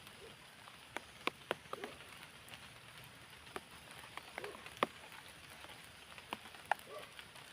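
Light rain falling: a faint steady hiss with irregular sharp drops and ticks landing on nearby surfaces.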